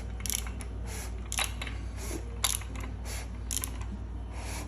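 Ratchet wrench on the crankshaft bolt turning a freshly assembled engine's crank and pistons over by hand, short bursts of ratchet clicking about twice a second. This is a check of how freely the rotating assembly turns.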